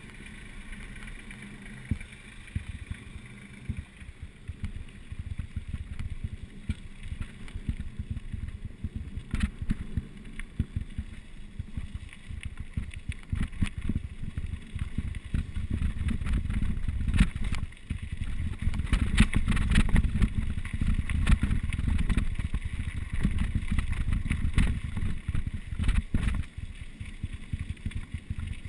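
Mountain bike riding downhill over rough ground: low wind buffeting on the microphone mixed with tyre rumble and rapid clattering knocks of the bike. It grows louder and rougher about halfway through.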